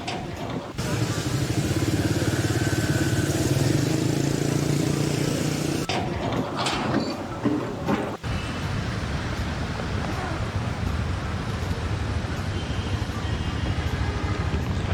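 Engine and machinery noise running steadily, changing abruptly a few times where short clips are cut together.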